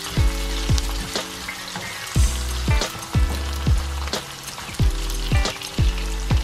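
Sliced onions sizzling in hot oil in a wok, stirred and scraped with a slotted plastic spatula. Background music with deep bass and a steady beat of about two strokes a second plays over it.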